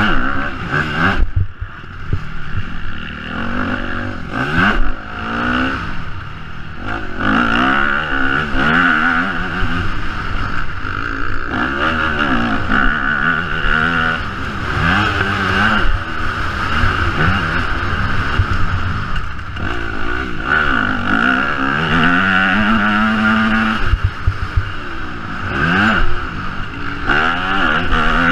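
Motocross bike engine revving up and down over and over as the throttle is opened and shut through a lap, with a few short knocks along the way.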